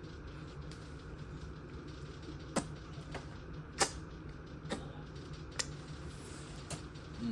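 About six sharp clicks and taps, irregularly spaced, over a steady low hum.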